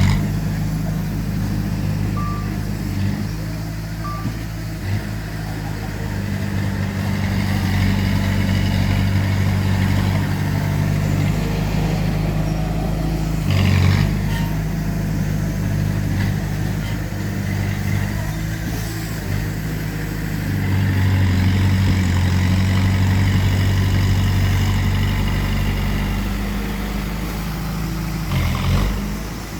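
Heavy diesel engine of earthmoving machinery running steadily under load, pulling harder and louder about two-thirds of the way through, with three sharp metallic knocks: one at the start, one midway and one near the end.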